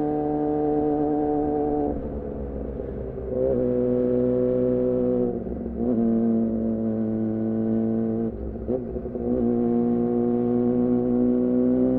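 2014 Yamaha R6 inline-four engine through an aftermarket R9 titanium muffler and Leovince header, running at steady throttle under way. It briefly drops off and picks up again three times, about two, five and a half and eight and a half seconds in.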